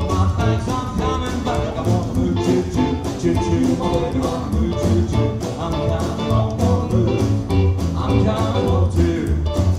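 A live band playing a song on guitar, bass and drums, with a steady beat, recorded through a phone's microphone in the room.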